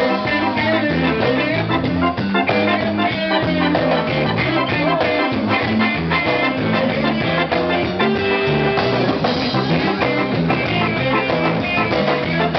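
Live band playing an instrumental passage: a lead guitar carries a slow, gliding melody over bass and a steady drum beat.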